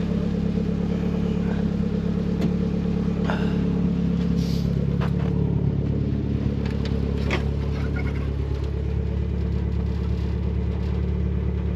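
Nissan 240SX engine running steadily at idle, with a few light clicks over it.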